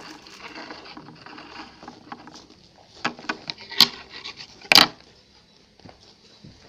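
Small clicks, taps and rustles of food being handled and tried, with two sharp cracks about four and five seconds in.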